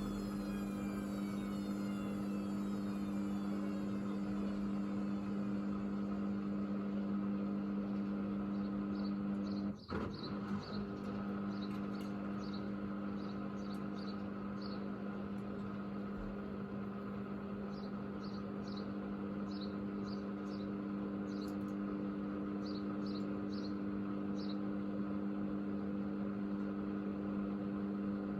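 Hoover Vision washing machine's drain pump running with a steady hum, doing an extra drain with the drum standing still after a failed spin reattempt, to make sure the pump is fully emptied. A falling whine in the first few seconds is the drum motor winding down. About ten seconds in, the hum breaks off for a moment with a click, then resumes, with faint light ticking for a while after.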